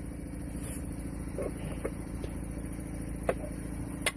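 A steady low engine hum, with a few light clicks, the sharpest about three seconds in and another near the end.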